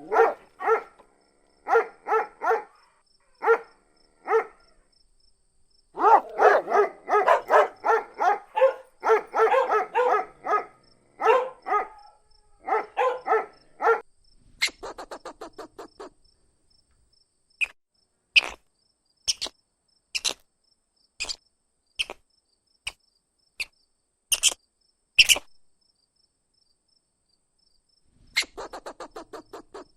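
A dog barking in quick runs of short barks. About halfway through it gives way to insect-like chirping: a fast train of clicks, then single sharp clicks about a second apart, and another rapid train near the end.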